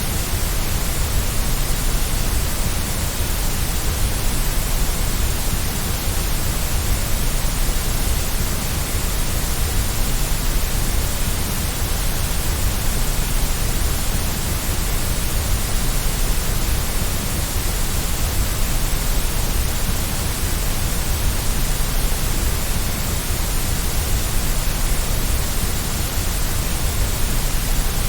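Steady, unchanging white noise played as a baby sleep aid: an even hiss with a strong low rumble, with no breaks or events.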